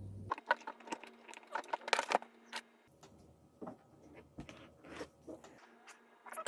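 Rapid small clicks, taps and rattles of a microphone and its stand parts being handled and fitted together, densest in the first few seconds with the sharpest knocks about two seconds in, then scattered taps.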